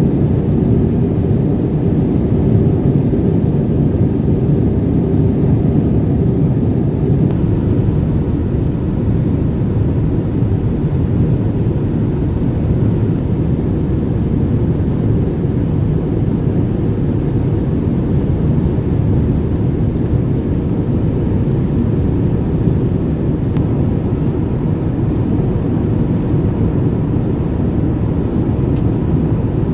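Steady low rumble inside the cabin of an Airbus A320 airliner with its jet engines running, and a faint steady whine above it.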